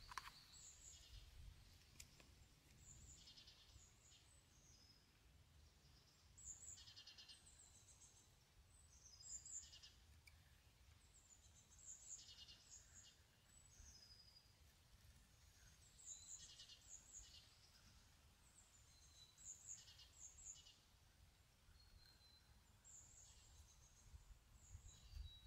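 A songbird singing faintly: short, high phrases with quick trills, repeated every three to four seconds.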